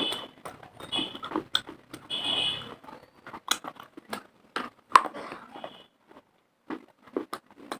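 Close-up crunching and chewing of dry baked clay and chalk: a run of sharp, separate bites, the loudest about five seconds in. Short high beeping tones sound a few times in the first three seconds.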